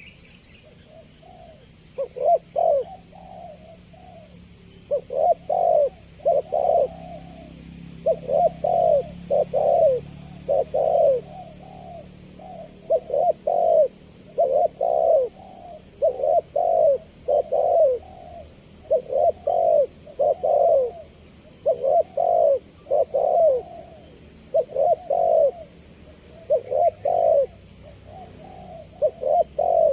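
Spotted dove (tekukur) cooing over and over: short phrases of two or three low coos, one phrase about every two seconds, with a steady high hiss behind.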